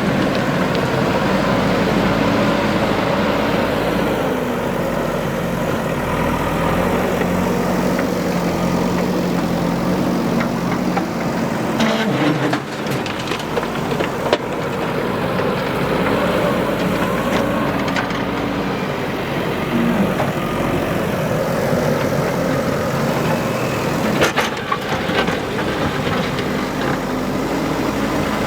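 JCB 3DX backhoe loader's diesel engine running, its pitch rising and falling as it works. A few sharp knocks come partway through and again near the end.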